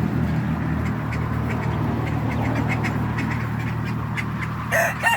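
Ducks quacking in quick, short calls over a steady low hum. Near the end a rooster starts to crow.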